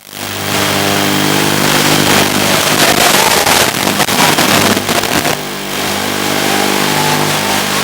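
Hiss with a steady, many-toned buzz underneath, as recorded by FPV goggles' DVR from a small toothpick quadcopter's analog video link in flight. It is loud throughout and dips briefly about five seconds in.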